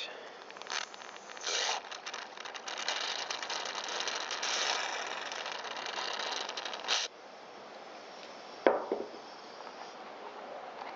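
Aerosol can of Tri-Flow lubricant spraying: a short burst, then a long crackly hiss that cuts off suddenly about seven seconds in. A single sharp click follows about a second and a half later.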